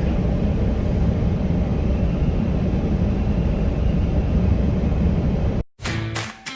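Steady low rumble of an idling diesel semi truck, which cuts off abruptly about five and a half seconds in.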